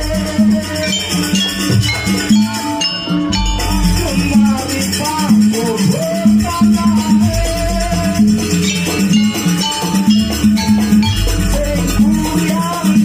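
Live jaranan music: a Javanese percussion ensemble with a steady repeating beat under a wavering melody line.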